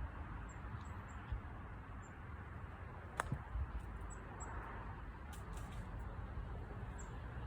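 Outdoor background with a steady low rumble, a few faint high chirps, and a single sharp click about three seconds in.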